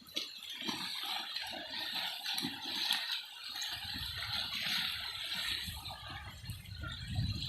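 River water splashing and gurgling, with a low rumble joining about halfway through.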